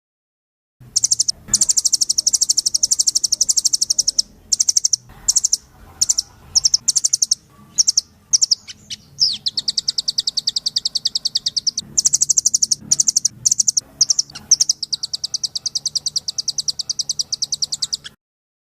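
Rambatan loreng songbird singing in full voice: long runs of rapid, high repeated notes broken by short pauses. The song starts about a second in and stops abruptly just before the end.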